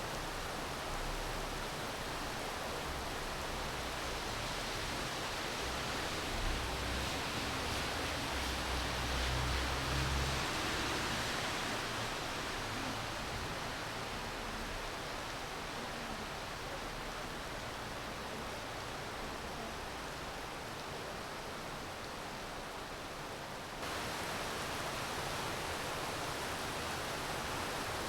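Steady rain falling, an even hiss. A low rumble swells and fades about a third of the way in, and the hiss turns abruptly brighter near the end.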